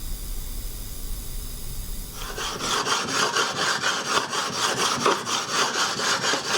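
A 400-grit whetstone being rubbed back and forth on a Naniwa flattening stone, a gritty stone-on-stone scraping in quick, even strokes of about five a second, starting about two seconds in.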